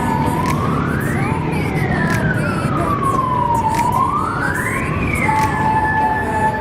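A siren wailing: its pitch rises quickly, falls slowly, and rises again, then about five seconds in it changes to a steady held tone, over a continuous background of outdoor noise.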